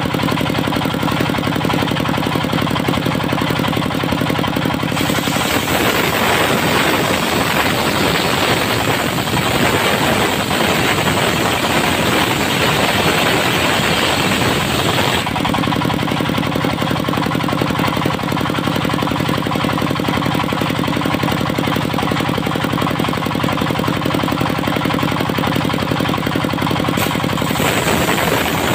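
A motor or engine running steadily at an even pitch. From about five to fifteen seconds in it turns harsher and noisier, then settles back to the steady tone.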